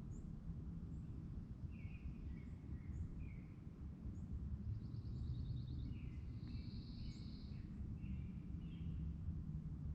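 Lakeside outdoor ambience: a steady low rumble with birds chirping repeatedly. A quick high trill comes about five seconds in, and a buzzy high call comes around seven seconds.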